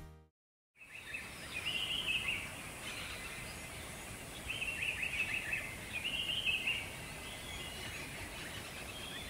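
Birds singing in short chirping phrases a few seconds apart over a steady background hiss, after a brief silence at the start.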